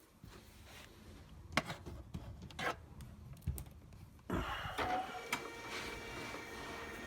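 A few handling clicks and knocks, then about four seconds in a HP LaserJet 3030 all-in-one printer starts up with a steady mechanical hum and a faint high whine.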